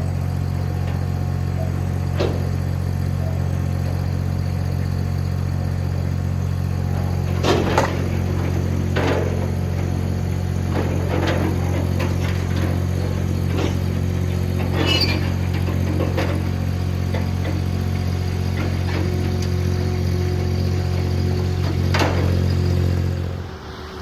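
An engine running steadily at a constant speed, with scattered knocks and clicks over it. It cuts off suddenly near the end.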